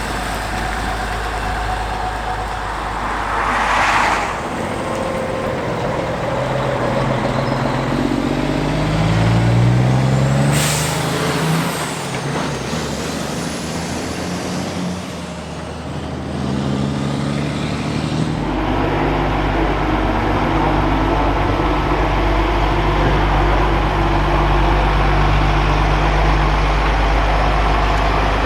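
Kenworth K100-series cabover truck's diesel engine running, with short air-brake hisses about four seconds in and about ten seconds in. The engine pitch climbs in steps twice in the middle, then settles into a steady low running for the rest.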